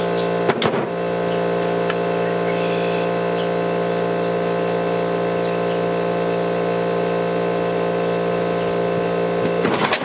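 Earthquake impact wrench hammering steadily on a bolt with a 21 mm socket, with a sharp crack about half a second in. It stops abruptly near the end.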